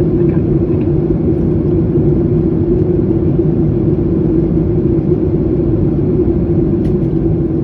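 Boeing 737-800 cabin noise: a steady rumble of engines and airflow with a constant mid-pitched hum.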